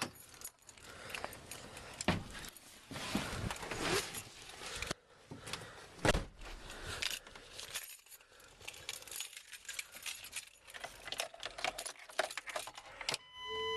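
Keys jangling and clicking, mixed with the knocks and rustles of handling. Near the end a steady warning tone comes on.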